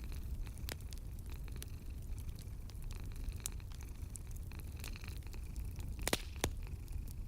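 Wood fire crackling in a fireplace: irregular sharp pops and snaps over a low steady rumble, with a brief cluster of louder pops about six seconds in.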